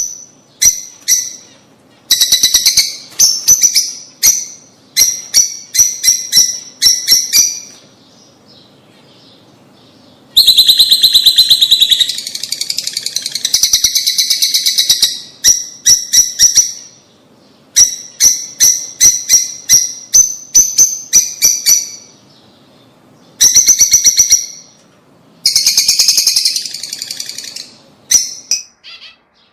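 Rosy-faced lovebirds calling: runs of sharp, rapid high chirps broken by short pauses, with stretches of dense, continuous chattering.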